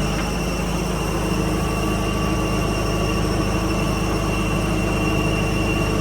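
Heavy tractor diesel engine running steadily at a constant speed, a low rumble with a few steady tones over it.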